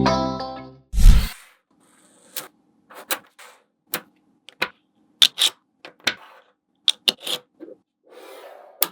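Background music fading out in the first second, then one loud thud. After that, small magnetic balls clicking and snapping together in irregular sharp clicks, some in quick pairs.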